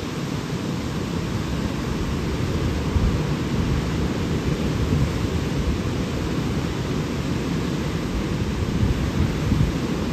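Steady rushing roar of falling water from a waterfall, heaviest in the low end and unbroken throughout.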